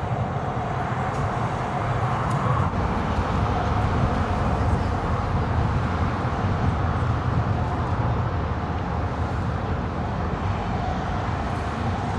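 A car engine running steadily at idle, with a low, even rumble over outdoor background noise.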